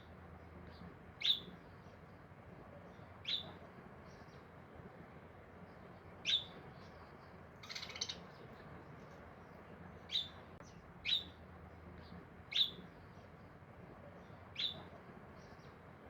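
A bird chirping: single short, sharp, high chirps every one to three seconds, with a brief busier flurry about eight seconds in.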